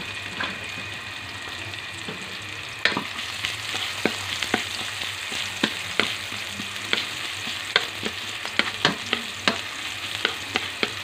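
Chopped red onion, garlic and ginger sizzling in oil in a metal wok. From about three seconds in, a wooden spatula stirs them, tapping and scraping against the pan in quick irregular clicks.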